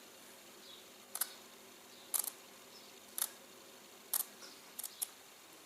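Scissors snipping, a short sharp snip about once a second, six times, the last two close together.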